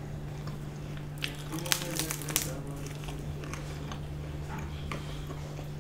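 Close-up chewing of a chicken-nugget shawarma wrap, with a cluster of wet, crunchy clicks and smacks about one to two and a half seconds in and softer chewing after.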